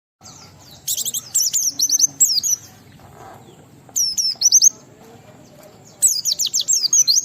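White-eye (pleci) singing in full voice: three runs of rapid, high, downward-slurred notes, starting about a second in, around four seconds in, and again at six seconds.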